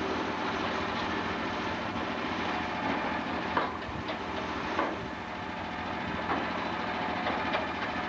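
An engine or machine running steadily with a constant hum, broken by a few sharp knocks.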